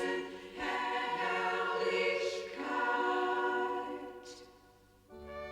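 A choir singing long held chords, fading away about four seconds in; a low instrumental note comes in just before the end.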